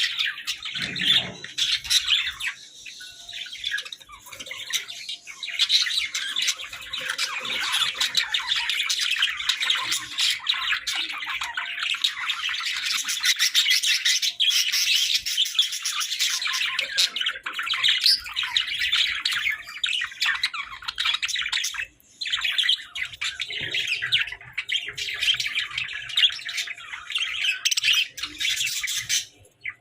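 Pet budgerigars chattering and squawking continuously in a dense, overlapping stream of high chirps, with one brief pause about three-quarters of the way through.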